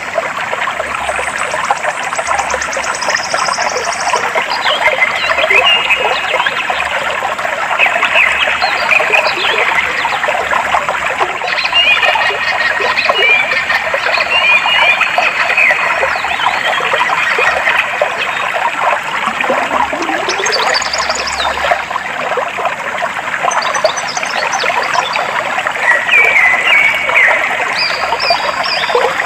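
Clear water flowing and trickling steadily, with birds chirping over it in short bursts of quick notes at intervals.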